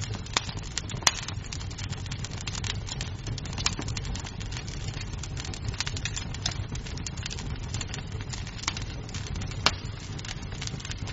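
Wood fire crackling in a fireplace: a steady low rumble of flames with constant small pops and a few sharper snaps, one about a second in and another near the end.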